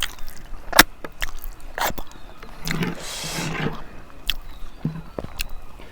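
Close-miked mukbang eating sounds: chewing, with sharp lip smacks and mouth clicks and a longer wet slurp about three seconds in.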